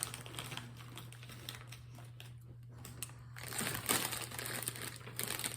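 Plastic snack wrapper crinkling as it is handled, with a short lull about halfway and more rustling after, over a low steady hum.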